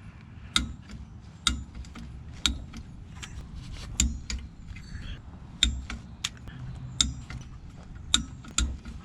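Sharp metallic clicks from a wrench tightening the bolts of a Ford 8.8-inch differential cover, coming roughly once a second at an irregular pace.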